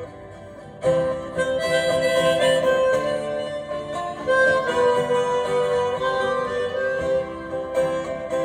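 Harmonica playing a sustained melodic break over strummed acoustic guitar in a live folk performance. The harmonica comes in about a second in after a brief lull and holds long notes.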